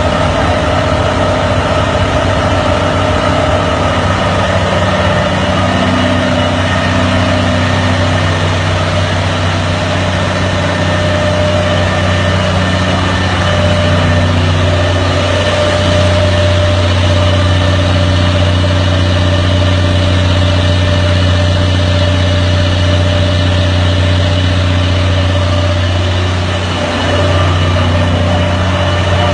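Generator engine running steadily at an even speed, with a brief dip in loudness near the end.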